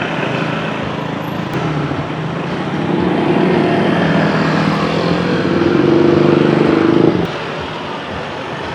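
Street traffic with a vehicle engine that grows louder over several seconds, then drops away abruptly about seven seconds in.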